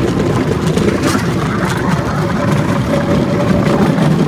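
Bamboo train's engine running steadily.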